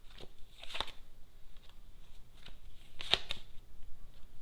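Lenormand cards being shuffled, a few sharp snaps of the cards, the loudest pair about three seconds in.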